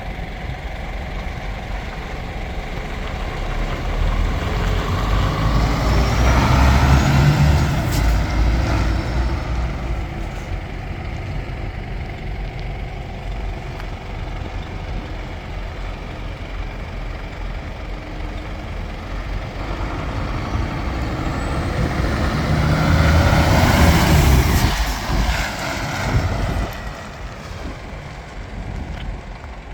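Scania P320 box truck's diesel engine idling and revved up twice, climbing to a peak about eight seconds in and again about twenty-four seconds in, with a faint turbo whistle rising with the revs. A short sharp hiss of air comes as the first rev drops away.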